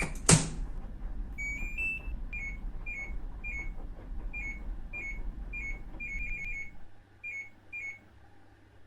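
A loud click, then a run of short electronic beeps, some as quick rising double tones, about two a second with a quick cluster near the end. These are the beeps of a washing machine's control panel as its buttons are pressed or its programme knob is turned to set a wash.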